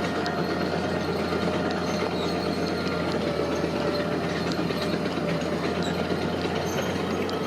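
Heavy earthmoving machinery running steadily, with a dense metallic clatter and squeal over the engine.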